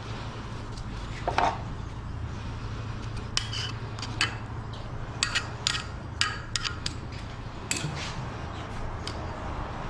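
Irregular sharp clinks and knocks of tools being handled and tapped during woodworking, over a steady low hum. The loudest knock comes about a second in and rings briefly.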